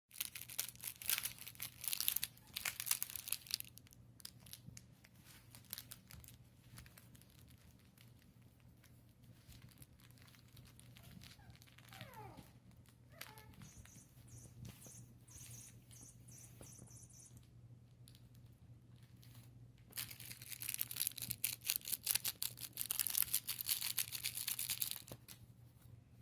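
Puppies tugging and chewing at a fabric skirt: rustling, tearing-like fabric noise in loud spells at the start and again for several seconds from about 20 s in. Two short falling whimpers come near the middle, with a steady low hum underneath.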